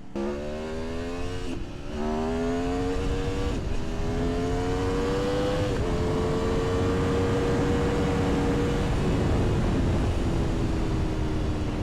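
Aprilia Tuono V4's V4 engine accelerating hard through the gears: its pitch climbs and drops back at three upshifts, then holds a high steady note that slowly sags near the end, over loud wind rush that builds with speed.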